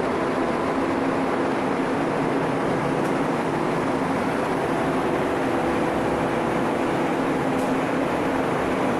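A steady machine hum with a few steady tones in it, running evenly without change.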